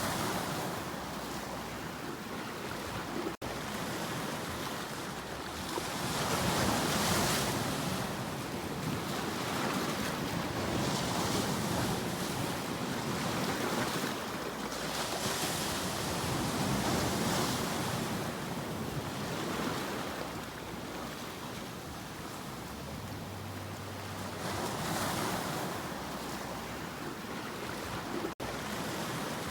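Sea waves breaking and washing in, the surf swelling and ebbing every few seconds. Two split-second dropouts break the sound, about three seconds in and near the end.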